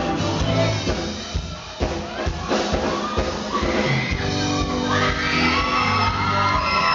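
Live pop music in a hall with an audience shouting and whooping over it. The cheering swells from about four seconds in.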